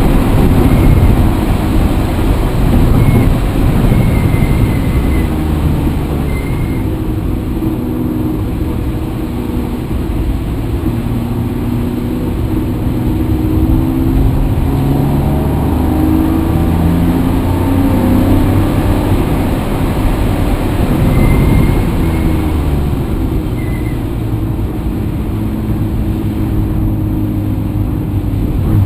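Vehicle engine running under way. Its pitch rises and falls several times, as with gear changes and throttle.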